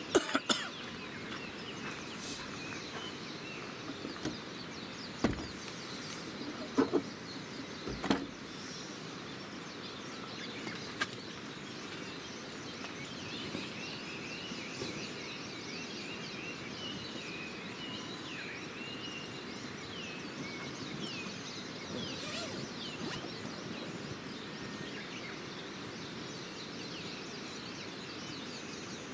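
Wood campfire crackling, with a few sharp pops, the loudest in the first eight seconds or so, over a steady rushing hiss. Small birds chirp and sing, mostly in the middle of the stretch.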